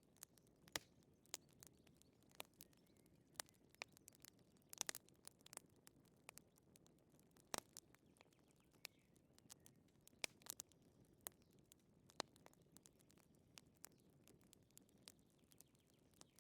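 Wood fire crackling: sparse, irregular sharp pops and snaps over a soft low hiss, with a few louder pops and little clusters of snaps.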